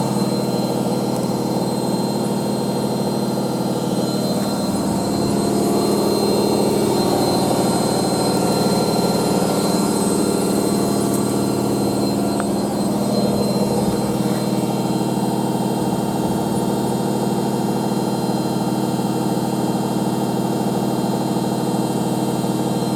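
Hoover A3308 Computer Control 1100 washing machine running in a high-speed spin: a steady motor and drum drone with a hum of several held tones.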